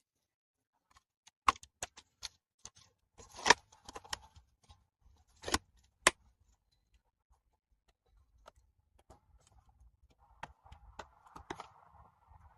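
Sharp, scattered knocks and clicks of tools and a basket being handled while potatoes are dug out of a raised bed, the loudest about one and a half, three and a half and six seconds in. A faint rustling starts about ten seconds in.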